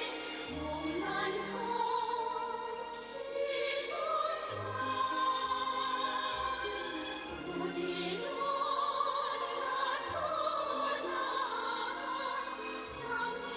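Orchestral music in an operatic style: a melody with strong vibrato over held bass notes that change every second or two.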